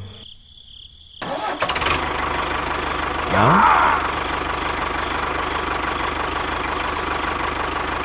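Tractor-style diesel engine cranking and catching about a second in, revving up briefly, then idling steadily with a regular knock. A hiss near the end as the load of beans slides out of the tipping trolley.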